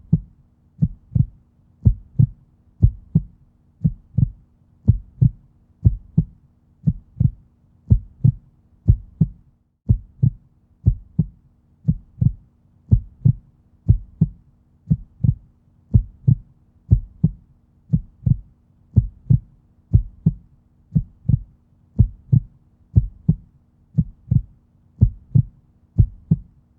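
Heartbeat, a steady double-beat lub-dub rhythm at about one beat a second, low and thudding, over a faint steady hum.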